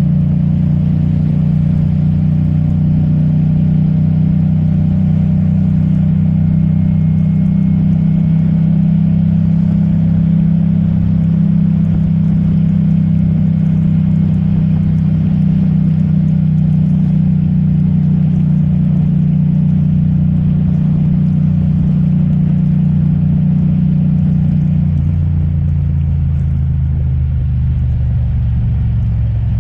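Yamaha MT-07's parallel-twin engine running steadily while riding, over a haze of wind and wet-road tyre noise. Near the end the engine note drops to a lower pitch.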